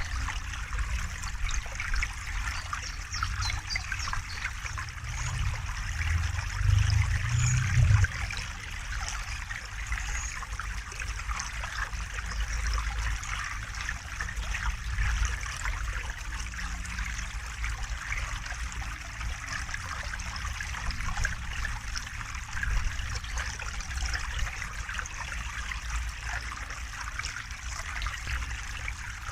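River water flowing and trickling over stones in a steady, even rush. A louder low rumble swells about six to eight seconds in.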